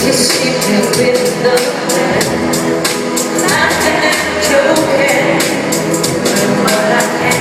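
Pop song performed live: singing over a steady beat, heard in a large arena.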